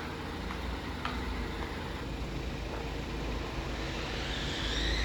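A steady low vehicle rumble, with a faint whine that rises near the end.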